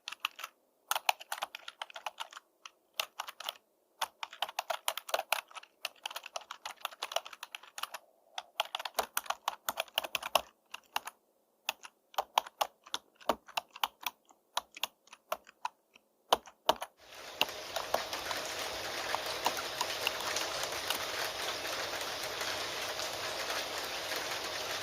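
Typing on a computer keyboard: rapid, irregular key clicks in runs broken by short pauses. About two-thirds of the way through the typing stops and steady rain begins, a continuous even hiss.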